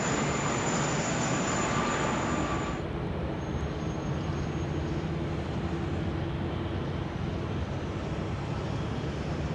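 Boeing 747-400 jet engines: a loud rush with a high steady whine for about the first three seconds, then an abrupt change to a lower, duller engine rumble with a low steady hum.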